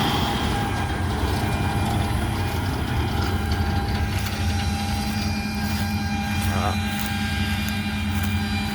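Steady drone of a large diesel farm machine running at a constant pitch during wheat harvest, with a low hum and a few fixed higher tones.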